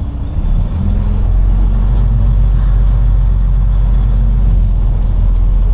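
Semi-truck diesel engine heard from the cab, building up about a second in and then running loud and steady under load as the truck and trailer back up.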